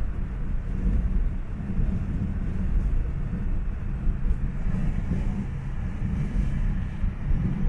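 A car driving at speed: a steady low engine and road rumble with wind noise on the microphone. The car is a 1972 Pontiac Grand Prix with a 455 V8.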